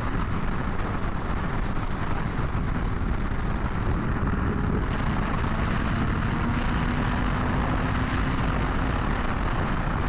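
2020 BMW S1000RR inline-four engine running steadily while riding, under heavy wind rush on the helmet microphone; the engine's pitch creeps slightly higher in the second half.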